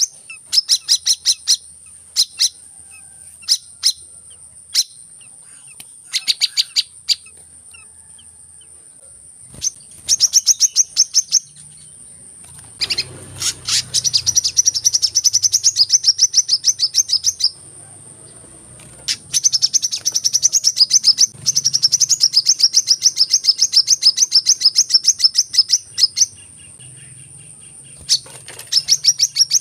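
Sunbird call, used as a lure: rapid trains of high, fast-repeated chirps, some lasting a few seconds, others short, broken by pauses. A steady thin high whine runs underneath.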